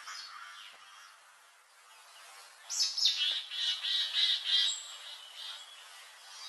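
Small birds chirping, with faint calls at first and then a loud, rapid run of high chirps lasting about two seconds, from a little under halfway in.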